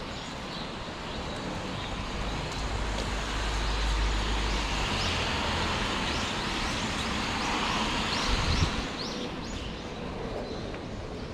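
A car driving past on a wet road: a hiss of tyres on water that swells over a few seconds under a low engine rumble, then fades.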